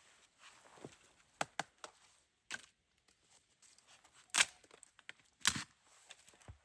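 Irregular knocks, snaps and rustling of things being handled at close range, with two louder knocks about four and a half and five and a half seconds in.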